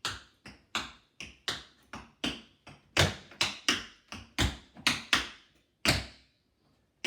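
Tap shoes striking a hard floor in a run of quick tap steps (heel, toe, scuff), about three sharp taps a second in an uneven dance rhythm, stopping shortly before the end.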